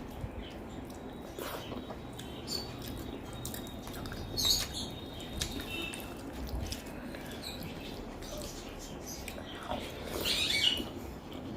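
Close-miked chewing and wet mouth sounds of someone eating, with short smacks and clicks, louder about four and a half seconds in and again near the end.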